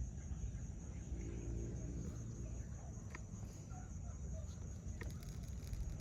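Outdoor ambience: a steady low rumble with faint, scattered chirping calls and two sharp clicks, one about three seconds in and one near the end.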